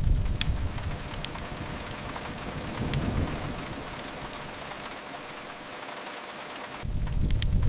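Steady rain hiss with the sharp, scattered crackles of a wood fire. A low rumble is heavy for the first second or so, swells again about three seconds in, and returns suddenly near the end.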